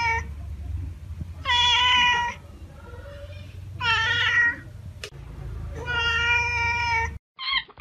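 Scottish Fold cat meowing, three meows about two seconds apart, the middle one rising then falling in pitch, over a low steady hum. Near the end the hum cuts off and quick, high squeaky calls begin.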